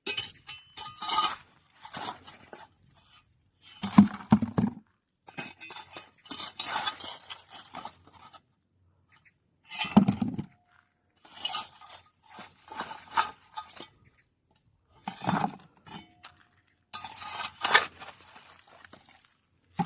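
A shovel scraping up dry cow dung and tipping it into a bucket, in repeated bursts of scraping and crunching every couple of seconds.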